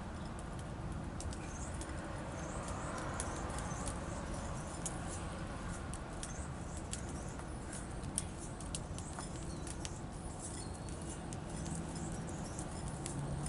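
Small songbirds feeding at a seed feeder: scattered quick ticks and taps of pecking and hopping, one sharper tap about eight seconds in, with short high chirps now and then over a steady low rumble.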